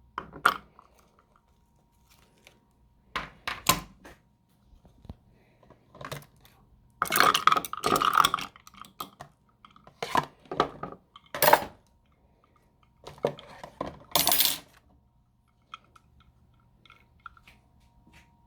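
Irregular clinks and clatters of glassware and utensils, coming in short bursts with pauses between them.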